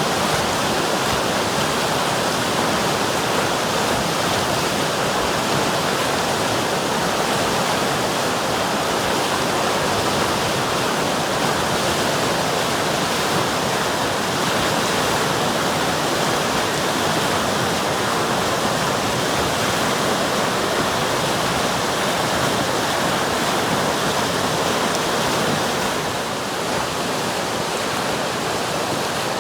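River water rushing steadily, an even, unbroken wash of flowing water, dipping slightly in level near the end.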